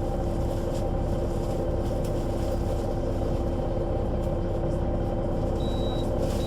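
Solaris Urbino 12 III city bus with Voith automatic gearbox, its diesel engine and drivetrain running at a steady speed with an even drone and whine. A short faint high beep sounds near the end.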